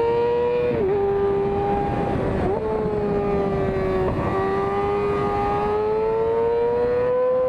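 Yamaha R6 inline-four engine running at very high revs, a steady high-pitched scream held near the top of its range. The pitch dips briefly three times and creeps up again near the end.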